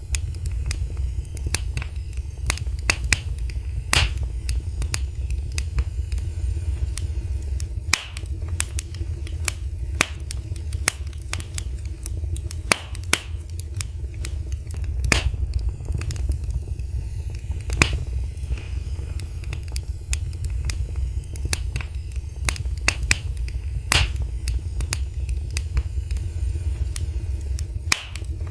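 Fire in a fireplace crackling, with many irregular sharp pops of varying loudness over a steady low rumble of the flames.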